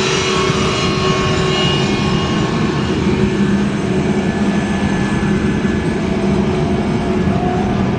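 Jet airliner engines running at high power on a takeoff, a loud steady sound with whining tones that fade over the first few seconds.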